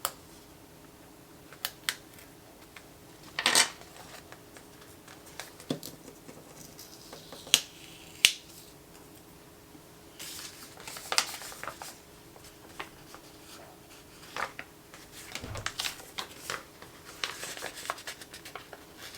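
Paper and sticker sheets being handled on a desk: scattered sharp clicks and taps with a few short rustles and crinkles, busier toward the end.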